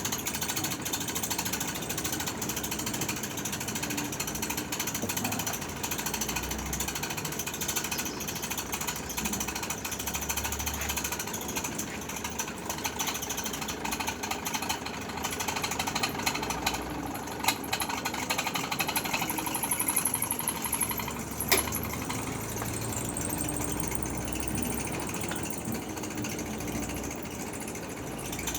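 Electric arc welding on a foundation bolt: the arc gives a steady, dense crackle, with two sharper snaps partway through.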